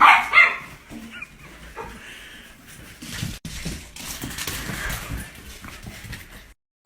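A dog vocalizing, with two loud short calls in the first half-second, then quieter sounds.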